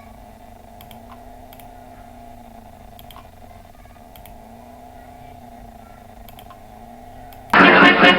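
Faint computer mouse clicks over a steady low hum, then a loud sound lasting about a second near the end.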